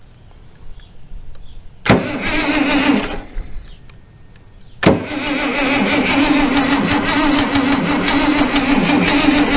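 International Harvester 1086 tractor's diesel engine being cranked by its starter. There is a short crank of about a second, a pause, then a long steady crank, with the starter's whine under the rhythmic engine turnover. The engine does not fire; the owner suspects air in the injector lines.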